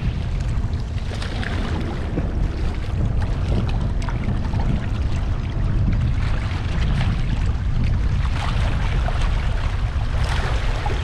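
Wind buffeting the microphone in a steady low rumble, over the wash of the sea against the shore.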